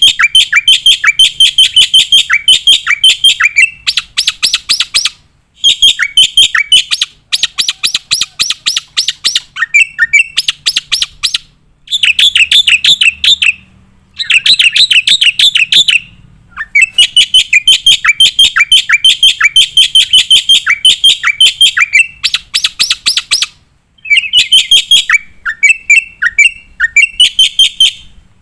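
Black-winged starling (jalak putih) singing hard: loud runs of rapid, sharp repeated notes, each run a few seconds long with short pauses between. These are the fast 'shooting' phrases and mimicked song fillings that keepers want in a contest bird.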